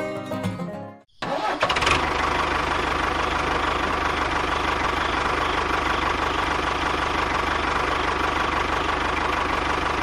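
Banjo-style music ends about a second in. A motor then starts and runs steadily with a fast, even chug and a steady whine.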